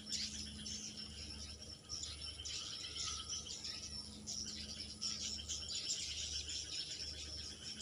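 Swiftlets chirping: a dense, continuous chatter of rapid high-pitched chirps and trills, the lure calls used to draw swiftlets home at dusk.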